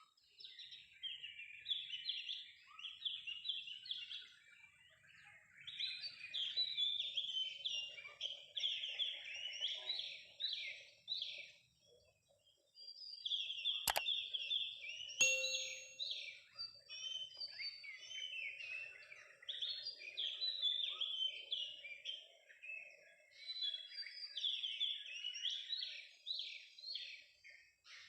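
Oriental magpie-robin (kacer) song: rapid, varied phrases of chirps and whistles running almost without pause, with a short lull a little before the middle. Two sharp clicks sound about halfway through.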